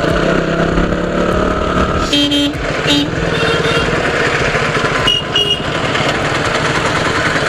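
Motorcycle engine running while riding, with several short horn honks between about two and five and a half seconds in.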